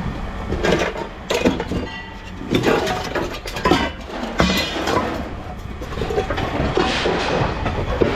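Scrap metal being handled: irregular metallic clanks and bangs over a low steady rumble.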